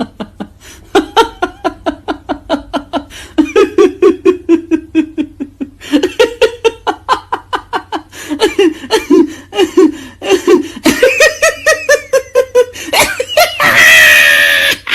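Several different recorded human laughs in a row, as sound effects. Each is a rapid run of 'ha-ha' pulses. A loud, high, drawn-out cry near the end is the loudest part.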